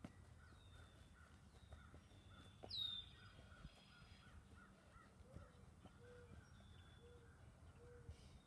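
Faint outdoor ambience of birds calling, with short repeated calls throughout and one louder falling call about three seconds in, over a low steady background rumble.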